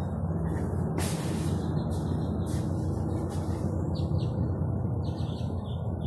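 A few short, high bird chirps in the second half, over a steady low rumble of vehicle traffic, with a brief hiss about a second in.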